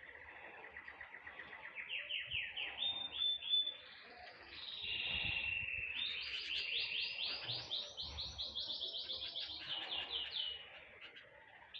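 Small songbirds singing. Long, fast trills of high repeated chirps come one after another, the longest running from about five seconds in until shortly before the end.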